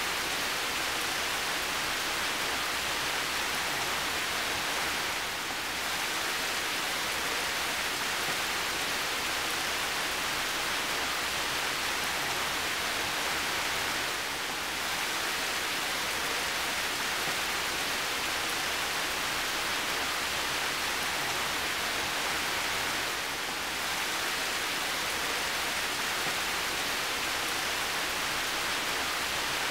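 Steady heavy rain, an even rushing hiss that dips slightly for a moment three times, about nine seconds apart.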